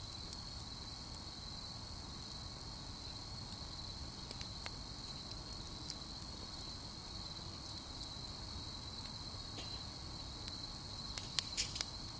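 Crickets trilling steadily at one high pitch, with a few sharp clicks about four seconds in and a quick cluster of them near the end.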